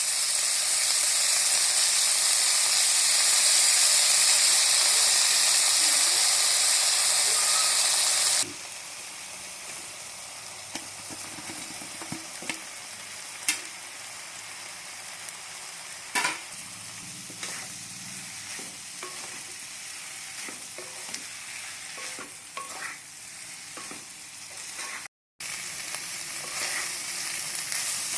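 Food frying and sizzling in a hot pan. The sizzle is loud for about eight seconds, then drops suddenly to a quieter sizzle broken by occasional clicks and scrapes of a utensil stirring in the pan, with a short silent gap near the end.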